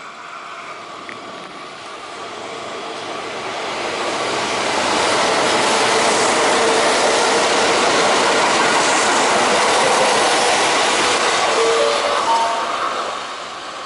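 Kintetsu 15200 series 'Kagirohi' electric train running through a station platform at speed without stopping. Its wheel and rail noise builds over the first few seconds, holds loud for several seconds as the cars go by, then fades near the end.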